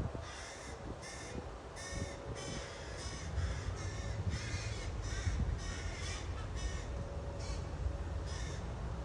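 Birds giving a rapid series of about a dozen short, harsh, caw-like calls, over a steady low rumble.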